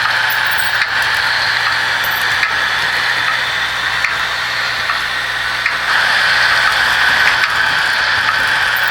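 Märklin HO-scale model locomotive running along the track: a steady electric-motor and wheel whir with faint occasional clicks, growing a little louder about six seconds in.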